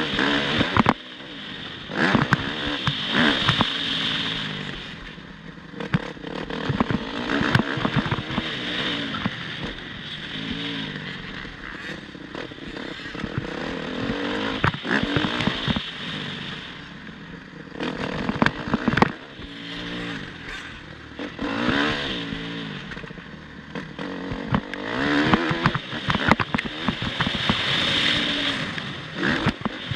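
Motocross bike engine revving hard and easing off over and over, its pitch climbing and dropping every few seconds, with frequent sharp knocks and clattering throughout.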